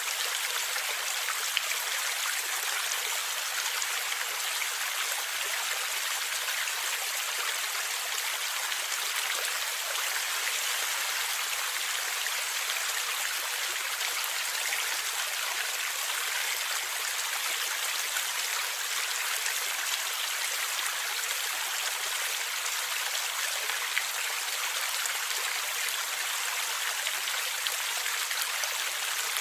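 A stream of water flowing and gurgling, a steady, unbroken rush.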